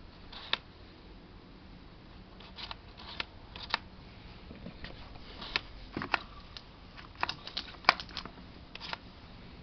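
Irregular light clicks and knocks of things being handled, with one sharper knock about eight seconds in. No motor or spray is running.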